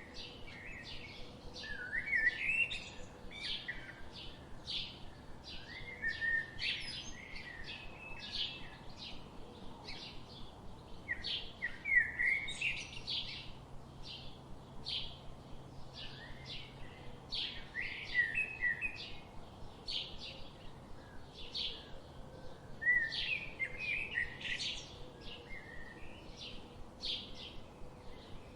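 Forest birds singing: a steady stream of quick, high chirps, with longer warbling song phrases breaking in every few seconds.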